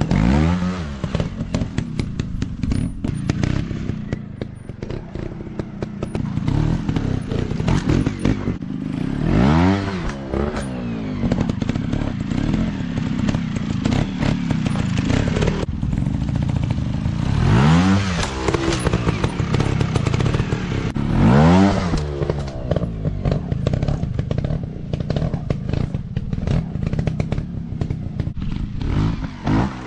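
Dirt bike engines running and being revved hard again and again, rising sharply in pitch about four times, with knocks and clatter from the bikes going over rough ground.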